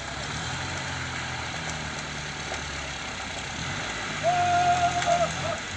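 Truck engine running steadily at low revs. About four seconds in, a loud, steady high tone sounds for about a second.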